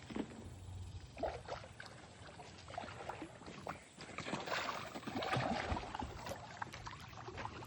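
Water sloshing and splashing, with scattered small clicks, as a hooked carp is played on light tackle; it grows louder about four seconds in.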